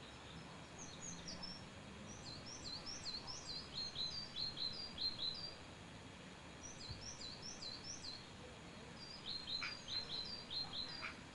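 Small birds chirping in quick runs of short, high notes that each drop in pitch, coming in several bursts over a faint steady background hiss.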